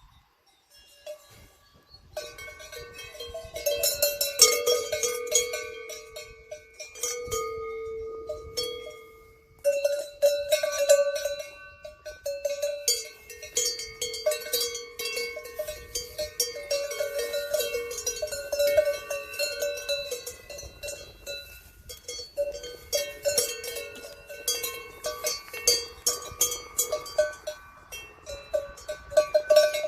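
Several cowbells clanking irregularly at different pitches, as cattle move and graze.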